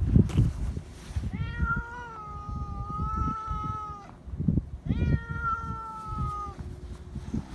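Domestic cat meowing: two long, drawn-out meows, the first about a second in and the second about five seconds in, over low thumps and rustling.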